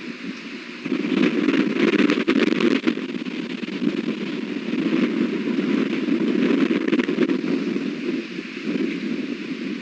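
Strong wind gusting over the nest camera's microphone, swelling sharply about a second in and rising and falling after that, with a few brief clicks.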